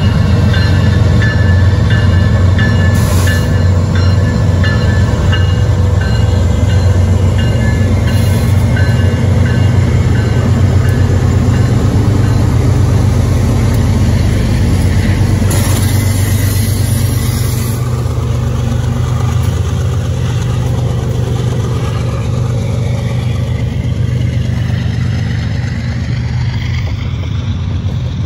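A heavy freight train's lead GE diesel locomotives, a CP AC4400CWM and a BNSF unit, pulling hard from a standing start with a deep, steady engine drone as they pass close by. After them come loaded tank cars rolling past. A grade-crossing bell rings in the first several seconds.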